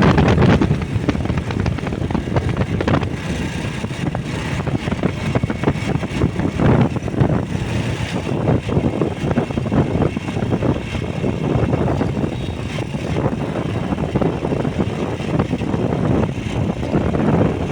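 Motorbike on the move: steady rushing road and wind noise with irregular gusts buffeting the microphone.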